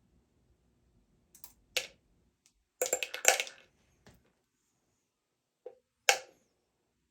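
A few sharp knocks and clatters of hard parts or tools being handled: one about two seconds in, a short burst of clattering about a second later, and another knock near the end.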